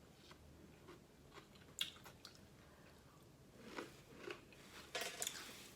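Faint chewing and biting of food close to the microphone, with a few short wet clicks and crunches about two seconds in and again near the end.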